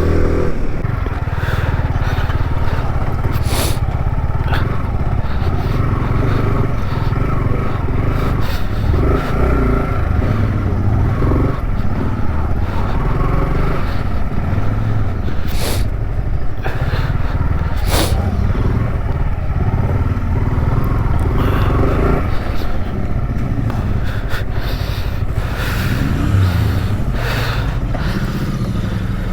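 Motorcycle engine running steadily while riding along the road, with a few brief knocks.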